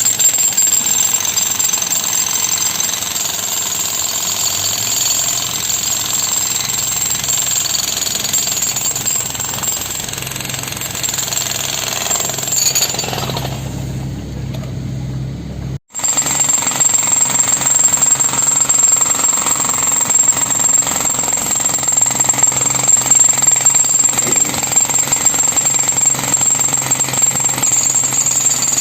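Hand-held breaker hammer (jackhammer) pounding and chipping concrete off a bored pile head in rapid continuous blows, with a steady low hum underneath. The sound drops out for an instant about sixteen seconds in, then the hammering resumes.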